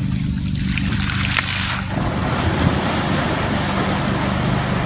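Water splashing and churning with wind on the microphone: a hissing rush about half a second in that lasts over a second, then rough, even water noise over a steady low hum.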